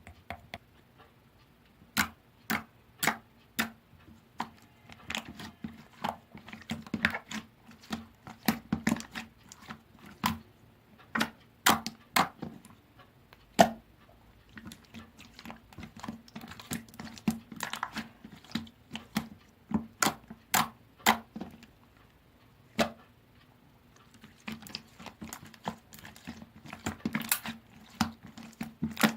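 Hands squishing and pressing jiggly 'tangle' slime, giving irregular sharp clicks and pops of trapped air, at times several a second, with quieter stretches between. A faint steady hum runs underneath.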